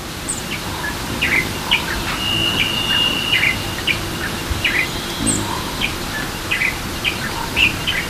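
Wild birds calling in a forest: short chirps, a few a second and irregular, with one longer, even whistled note about two seconds in, over a steady background hiss.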